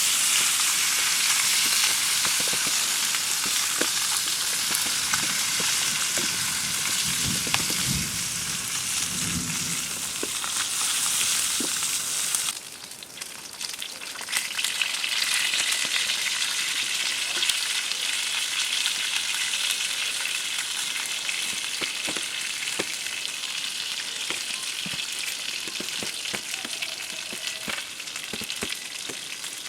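Food frying in a pan: a steady sizzling hiss with small pops. The sizzle drops away suddenly about thirteen seconds in and comes back a couple of seconds later.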